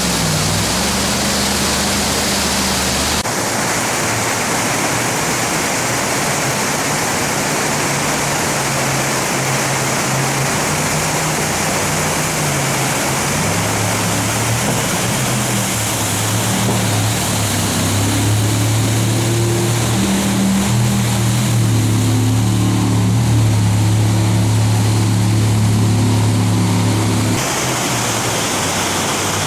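Jet boat engine running hard through whitewater, its pitch shifting and growing stronger about halfway through, under a loud rush of water and wind. The sound changes abruptly about three seconds in and again near the end.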